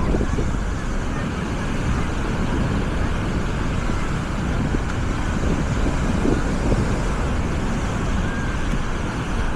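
Busy beach ambience: a steady wash of surf with wind rumbling on the microphone and indistinct crowd voices.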